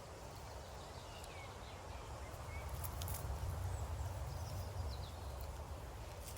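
Outdoor woodland ambience: a steady low rumble with a few faint short high chirps and light clicks about halfway through.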